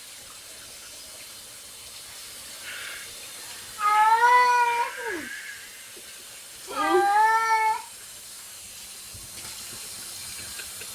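A domestic cat meowing twice: two long, drawn-out meows about three seconds apart, over a faint steady hiss.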